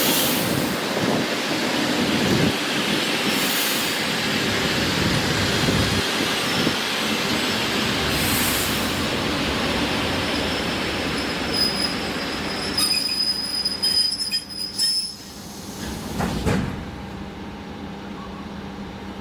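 ED4M electric multiple unit rolling in over the rails with loud, even running noise. Its brakes and wheels squeal in high, piercing tones as it slows, about two thirds of the way through. The noise then drops off sharply as the train stops, leaving a quieter steady hum.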